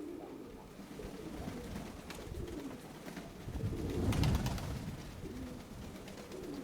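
Domestic pigeons cooing, with wind rumbling on the microphone that swells about four seconds in.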